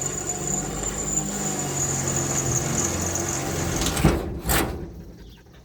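Electric drill with a 1/4-inch bit boring a bolt hole through the side of a trailer: it runs steadily with a high motor whine, then stops about four seconds in with a knock and a brief rasp as the hole is finished.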